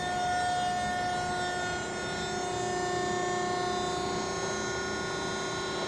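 Hydraulic power unit of a Selco V15 vertical baler, electric motor and pump, running steadily as the ram is driven down, a continuous hum with a held whine.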